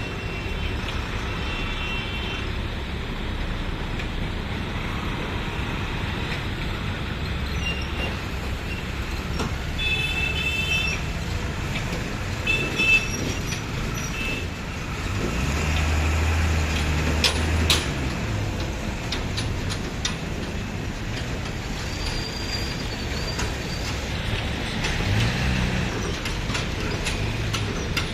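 Road traffic of trucks and buses passing, engines running, with short horn toots several times and a heavy vehicle's engine loudest about halfway through.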